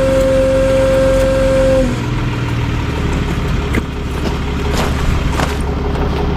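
Tow truck engine idling, with a steady whine that cuts off about two seconds in, followed by a few short clinks and rattles.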